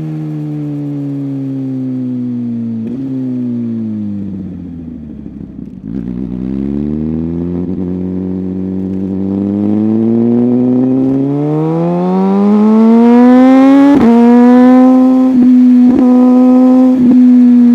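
Superbike engine decelerating, its revs falling for several seconds with a downshift about three seconds in. It then accelerates hard, the pitch climbing steadily, and holds a high steady note near the end, broken by a few quick shifts.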